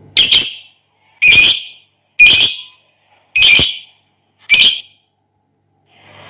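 Lovebird giving five loud, short, high-pitched calls, about one a second.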